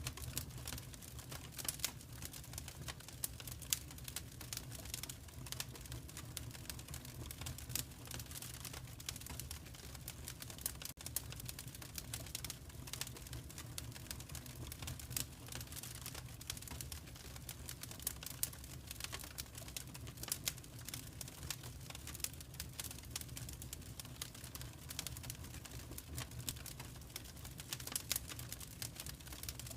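Fire crackling in a fireplace: a dense run of irregular small pops and snaps over a low steady rumble.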